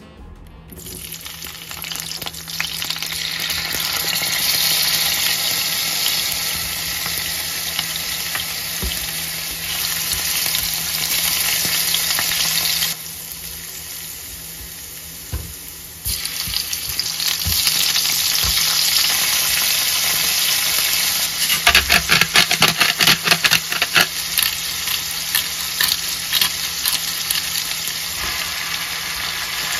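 Garlic and shrimp sizzling in hot olive oil in a frying pan, with a spatula stirring. The frying is steady, and a little past the middle it breaks into a few seconds of sharp crackling and spattering.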